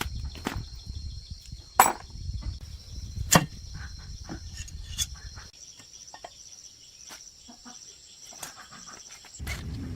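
A scatter of short clicks and knocks, with two sharper knocks about two and three and a half seconds in, over a faint steady high-pitched tone.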